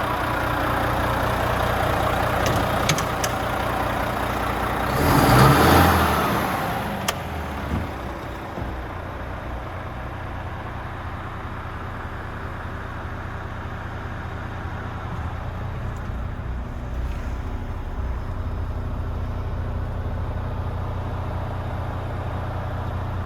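Volvo FM 450 tractor unit's 13-litre six-cylinder diesel running at a steady idle. About five seconds in, a loud rush of noise lasts about a second and a half before the idle settles again.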